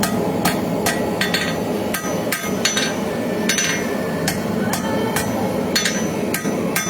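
Hand hammer striking hot steel on an anvil, about a dozen ringing blows at roughly two a second, as a forged knife blade's spine is straightened. A steady rushing noise runs underneath.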